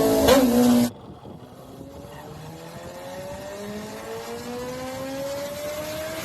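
A motorcycle engine runs loudly at steady revs and cuts off abruptly about a second in. A fainter engine follows, its pitch climbing steadily as it accelerates.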